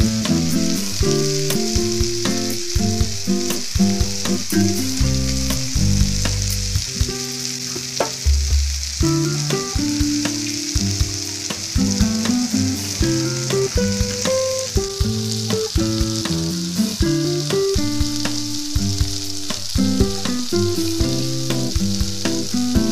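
Potato and neem-leaf stir-fry sizzling steadily in oil in a metal kadai, with frequent small clicks and pops. A tune of held, changing notes runs underneath.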